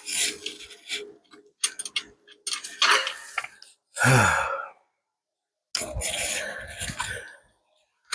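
A man grunting and groaning with effort while straining at the steering linkage, between bursts of scraping noise. About four seconds in there is one drawn-out groan that falls in pitch.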